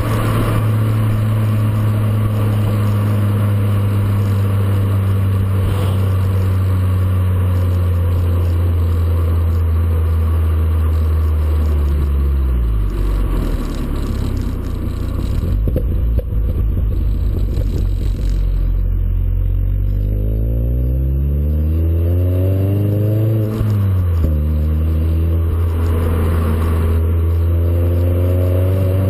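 Exhaust note of a VW Golf 4 with a JOM stainless-steel rear silencer under way: a steady drone, falling in pitch about twelve seconds in and staying low for a while. The pitch then rises steadily for a few seconds and drops sharply, and the drone settles back to a steady note.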